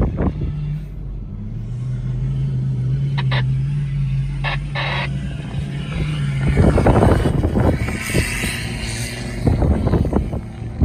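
A vehicle's engine running with a steady low hum, then louder, rougher rumbling from about six and a half seconds in.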